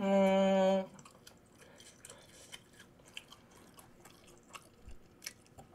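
A man hums a steady, held "mmm" for most of the first second, then chews a mouthful of tteokbokki, with faint wet clicks and smacks.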